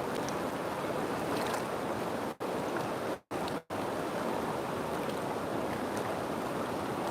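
River water rushing in a steady, even flow. The sound cuts out briefly three times a little after two and three seconds in.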